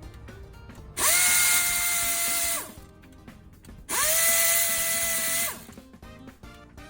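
A handheld electric power tool run twice, each time for about a second and a half: its motor whines up to speed, holds steady, then winds down. Background music plays underneath.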